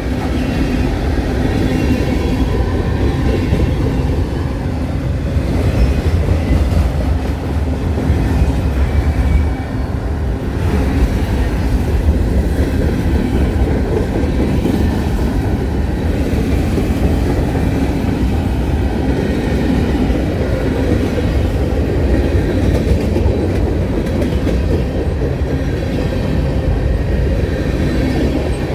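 Freight train rolling past, a steady loud rumble of wheels on the rails with a clickety-clack over the rail joints.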